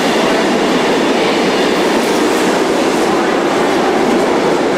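Steady running noise of a double-deck passenger train moving along the rails.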